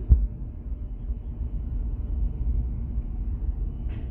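Steady low rumble, with a single knock just after the start.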